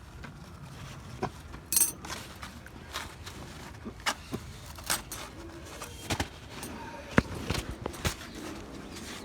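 Scattered light clicks and taps at irregular intervals, with a brief high hiss about two seconds in.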